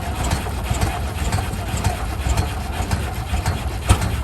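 Kerosene-burning Rumely OilPull tractor engine running with a steady low pulsing beat. A sharp click sounds near the end.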